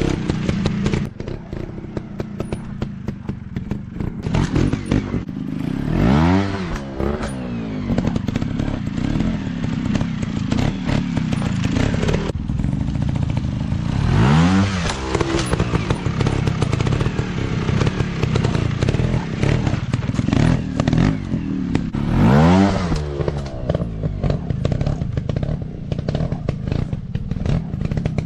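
Off-road dirt bike engines running, with the pitch rising and falling sharply three times, about eight seconds apart, over a steady rattle of clicks and clatter.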